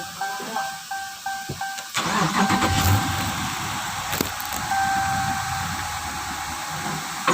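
A car's electronic beeping about three times a second, then about two seconds in the engine cranks, catches and runs steadily. The engine has a freshly fitted drive belt, tensioner and idler pulley, replaced to cure a whine from the front of the engine.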